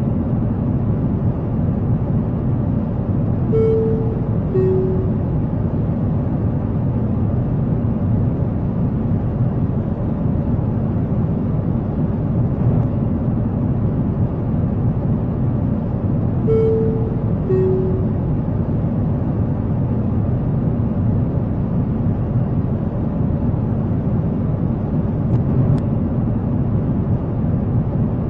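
Steady low rumble of jet airliner cabin noise, with the two-note high-low cabin chime sounding twice, about four and seventeen seconds in.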